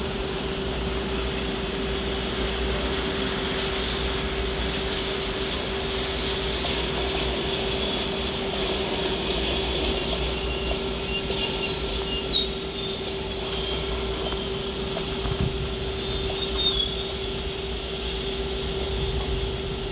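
A locomotive-hauled passenger train rolling slowly past on the rails: a steady rumble of the locomotive and coach wheels, with one constant hum and a few brief knocks.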